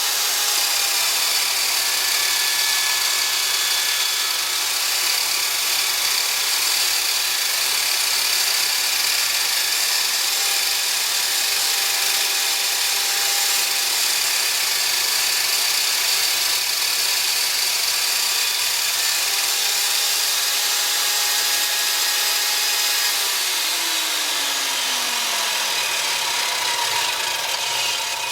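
An electric power tool running steadily on wood, with a hissing whine and a few steady high tones; a falling pitch is heard in the last few seconds.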